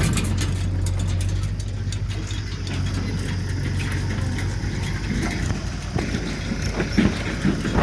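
Heavy diesel machinery engine running steadily. About five seconds in, the steady hum turns rougher, with a few sharp knocks near the end.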